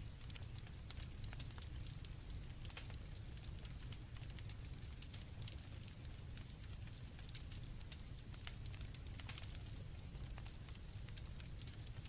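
Campfire crackling with frequent sharp pops over a low steady rumble, and crickets chirping in a high trill that comes and goes.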